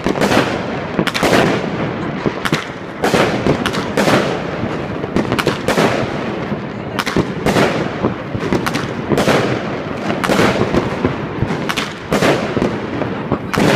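Aerial fireworks bursting overhead in a dense barrage: bang after bang, several a second, with crackling between them.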